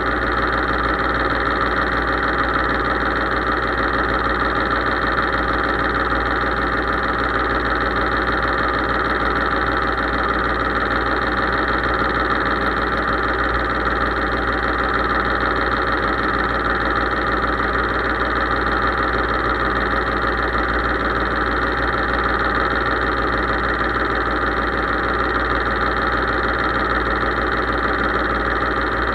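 Case IH 3220 tractor's diesel engine running at a steady speed, an even, unbroken drone.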